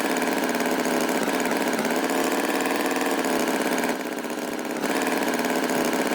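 A small engine running steadily with an even hum, dropping a little in level for about a second near the middle.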